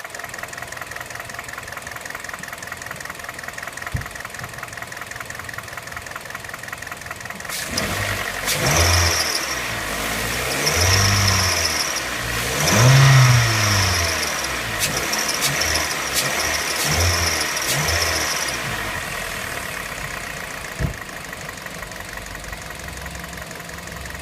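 2010 Kia Forte's 2.0-litre four-cylinder engine idling with a loud ticking, clattering noise, then revved up and let fall back several times from about eight seconds in before settling back to idle. The owner places the noise in the head rather than the bottom end and suspects the intake manifold butterfly valves.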